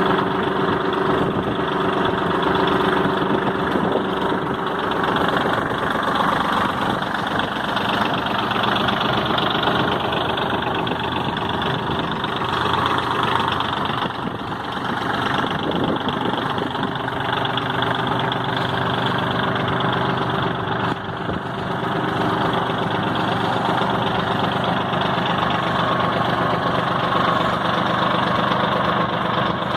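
New Holland tractor engine running steadily at a constant speed, like an idle.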